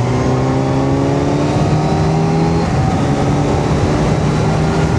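Kawasaki Z900's inline-four engine pulling under acceleration, its note rising steadily. About two and a half seconds in the note breaks and settles into a steadier pitch.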